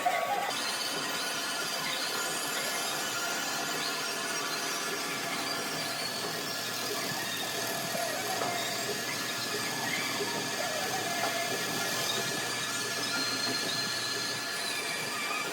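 Metalworking machine running steadily with a continuous high-pitched squeal over a hiss, without pause.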